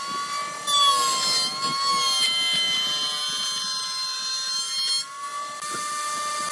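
Electric power tool running with a steady high-pitched motor whine, working wood. It gets louder just under a second in and drops back briefly near the end.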